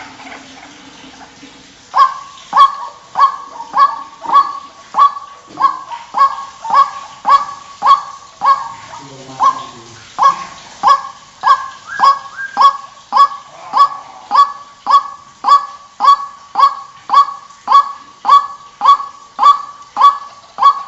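White-breasted waterhen (ruak-ruak) calling, the lure call used to draw the birds in: a loud, harsh honking note repeated evenly about one and a half times a second, starting about two seconds in.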